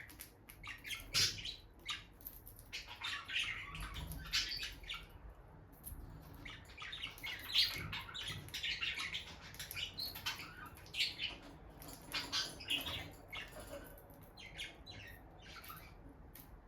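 Peach-faced lovebirds chirping: a steady run of quick, short, high chirps, several a second, with brief pauses.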